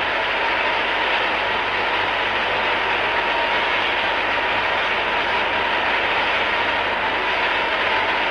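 A large congregation praying aloud all at once: a dense, steady wash of many voices in which no single voice stands out, with a steady tone underneath.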